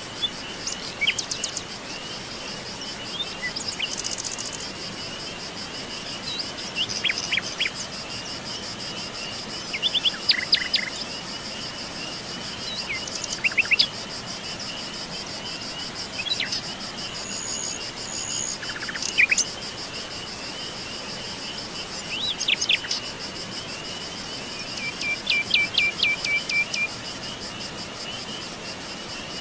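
Forest birds giving short chirps and brief song phrases every few seconds over a steady, high-pitched insect trill.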